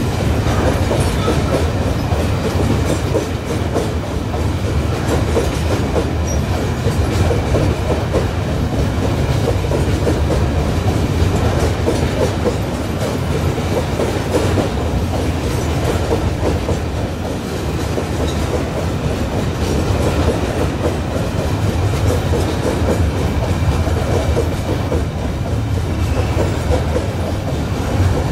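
Long string of open coal wagons on a Babaranjang coal train rolling steadily past, with a continuous clatter of steel wheels on the rails over a low rumble.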